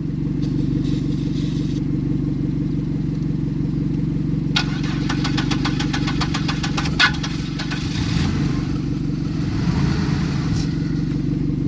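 Car engine cranking over on the starter without catching, a steady pulsing churn with a run of rapid clicks about five to seven seconds in. The owners take the failure to start for no fuel in the tank.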